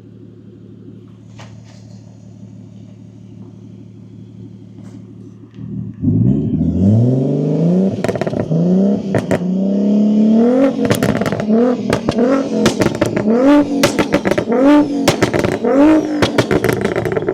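Single-turbo BMW G8X M3/M4 straight-six idling steadily, then from about six seconds in revved again and again, the pitch rising with each rev. Sharp cracks and pops come between the later revs.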